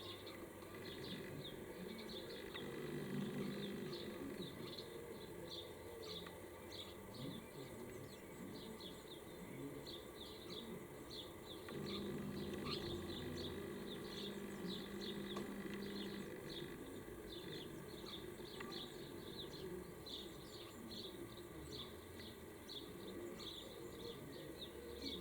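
Small birds chirping: a steady run of short, high chirps, about two to three a second, over a low background rumble.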